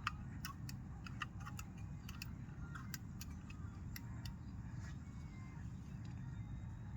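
Irregular light clicks and knocks of camp cooking gear being handled and packed up, thinning out after about five seconds, over a steady low rumble.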